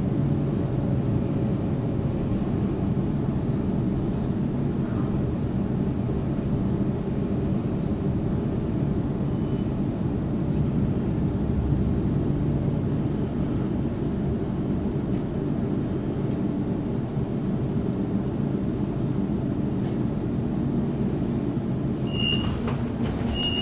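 Cabin noise inside a Waratah Series 2 electric train as it draws into a station and stops: a steady low rumble of the car running on the track. A few short, high beeps sound near the end.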